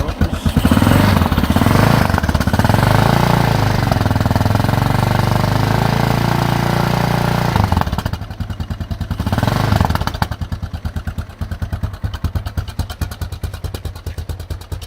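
Yamaha XTZ 660 Teneré's single-cylinder engine exhausting through a stainless steel Marving muffler, very well damped. It is revved and held up for several seconds, drops back, is blipped once more, then settles to an even idle. The engine is cold, at 0 °C, and idles a little low.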